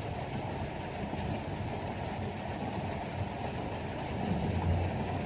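Steady rumble of a truck in motion: engine and running noise, even throughout.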